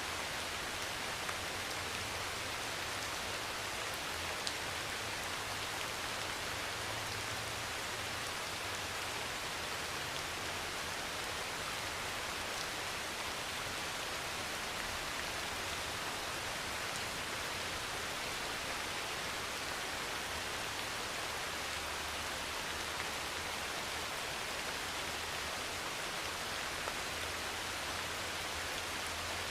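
Heavy rain pouring steadily on a metal roof, a dense even hiss with a few sharper drop hits standing out.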